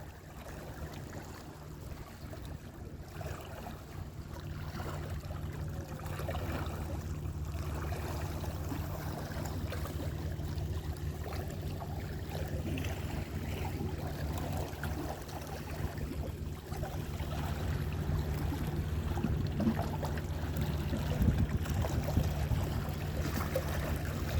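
Sea waves and surf: a steady low rumble and wash, slowly growing louder.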